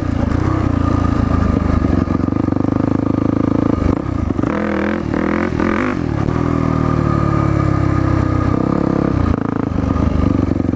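Yamaha WR450F dirt bike's single-cylinder four-stroke engine running under throttle while riding. The revs waver up and down a few times around the middle, then fall steadily for a couple of seconds before picking up again near the end.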